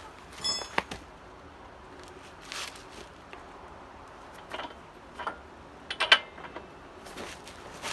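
Torque wrench being ratcheted on a motorcycle's rear axle nut: short bursts of ratchet clicks and metal clanks, with a quick run of clicks about half a second in and the loudest sharp clack about six seconds in.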